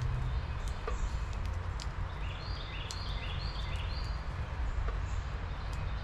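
A songbird singing a run of four repeated phrases, each dropping from a high note to a lower one, about two a second. Under it runs a steady low rumble, with a few short high chips.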